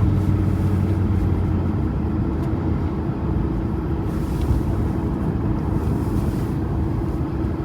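Steady engine hum and tyre noise heard from inside a car driving on cleared winter roads, with two short swells of hiss about four and six seconds in.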